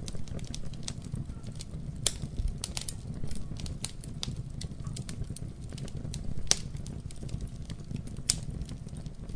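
Wood fire burning in a fireplace: a steady low rumble of flames with irregular crackles and pops, two sharper pops near the end.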